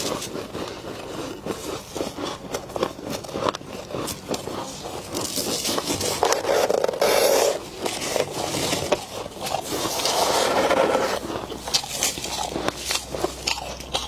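Freezer frost being scraped, crackling and crunching, with two louder, longer scrapes about five and ten seconds in.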